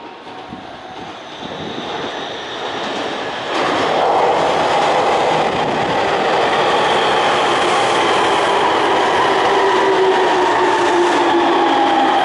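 Electric train pulling into a station. It grows louder until it passes close about three and a half seconds in, then carries on with a whine that slowly falls in pitch as it brakes.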